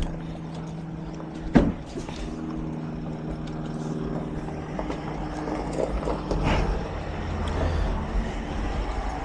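A vehicle engine running steadily at a low pitch, with a single sharp knock about one and a half seconds in.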